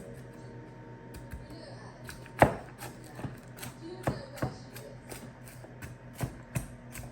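A knife chopping potatoes: a dozen or so irregular sharp knocks, the loudest about two and a half seconds in.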